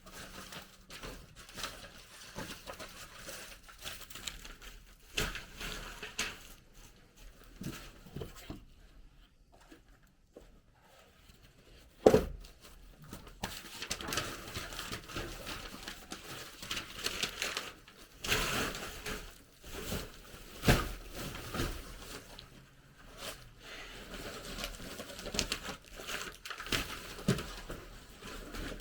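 Irregular rustling, crinkling and light knocking of hand work in a small room, with one sharp knock about twelve seconds in.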